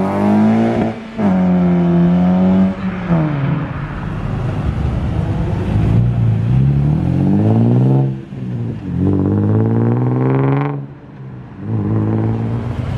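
Car engines accelerating hard as cars pull away. The engine note climbs, then drops sharply at gear changes: about a second in, near three seconds, around eight seconds and again near eleven seconds.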